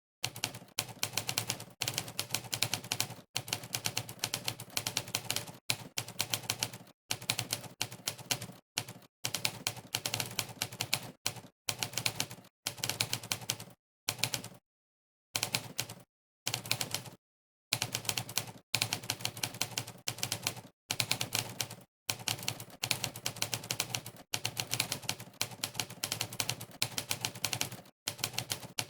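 Typewriter keystroke sound effects from the Monkeytype typing website, one click per key pressed. They come in fast runs of rapid clicks, broken every second or two by brief dead-silent pauses.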